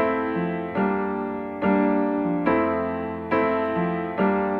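Background music: an instrumental passage of soft piano chords, struck a little more than once a second, each ringing and fading before the next.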